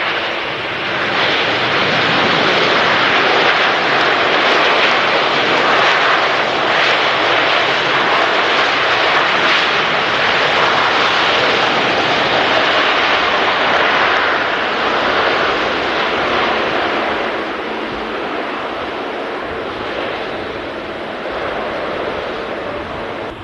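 A large jet airliner passing on its landing approach with a loud engine roar. The roar swells about a second in, holds for more than ten seconds, then slowly fades.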